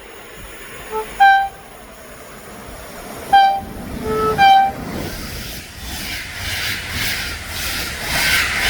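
Train horn giving five short blasts on two pitches, a low note and a higher one, within the first five seconds. Then the train comes closer and passes, its noise building, with an even rhythmic wheel clatter.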